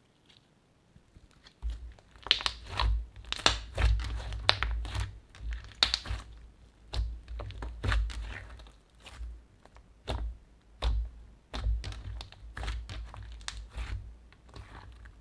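Hands kneading and pressing slime: a dense run of sticky crackles, pops and clicks over low handling thuds, starting about two seconds in.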